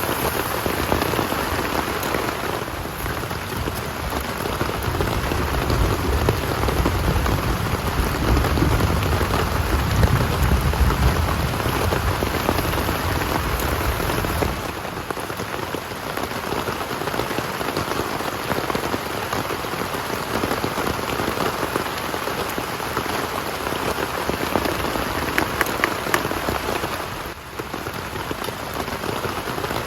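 Heavy rain falling steadily, with a deep rumble underneath for the first half that cuts off suddenly about halfway through.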